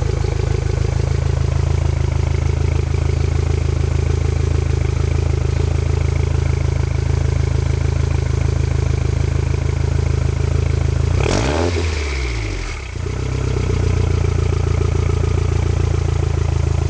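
Toyota MR2 engine running steadily through its exhaust, a low, even note. About eleven seconds in the tone briefly shifts and dips lower, then settles back to the same steady running.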